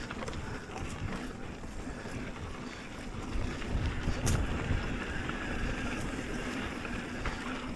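Wind buffeting the microphone of a mountain biker's camera while the bike rolls along a dirt trail, with steady tyre rumble and a few sharp clicks or rattles from the bike, the most distinct about four seconds in.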